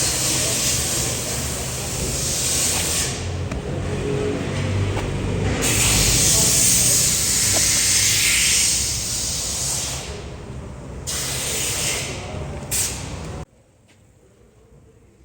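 Pressure washer spraying water in several bursts of loud hiss over a steady low running rumble, with a short blast near the end before it all cuts off suddenly.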